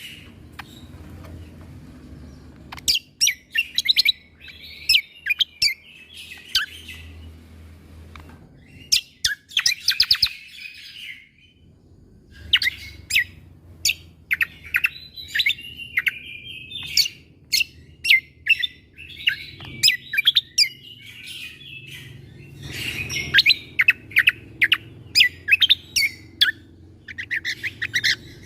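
A cucak kombo (kecial kombo) songbird singing in bursts of sharp, rapid 'shot' notes (tembakan) mixed with quick chattering phrases, with short pauses between the bursts. A faint low hum runs underneath.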